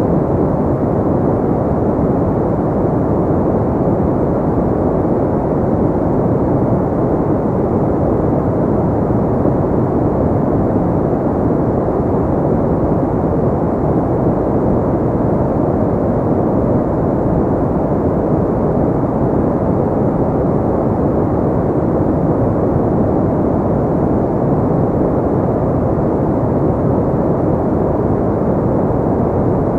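Steady noise track for sleep and relaxation, a deep, muffled hiss like rumbling air with little high end, unchanging throughout.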